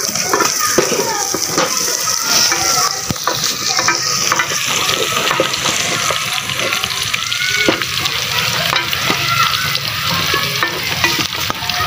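Sliced onions and garlic frying in oil in an aluminium pot, the onions browned, sizzling steadily while a wooden spoon stirs them and scrapes and knocks against the pot.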